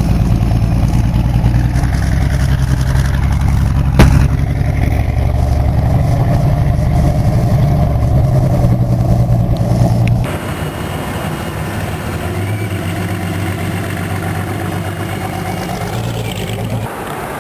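Allison V-1710 V12 aero engine in a hot-rod car, running loud and steady, with a sharp crack about four seconds in. The sound changes abruptly about ten seconds in to a quieter, more distant engine sound, and again near the end.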